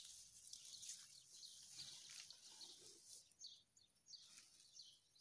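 Faint small-bird chirps, repeated and more frequent in the second half, over a quiet rustle of soil and potato leaves as bare hands dig out potatoes.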